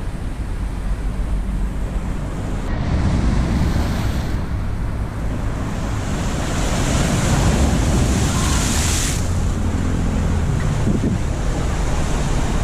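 Sea waves washing on a shore with wind buffeting the microphone; a hissier wash swells about six seconds in and drops off about three seconds later.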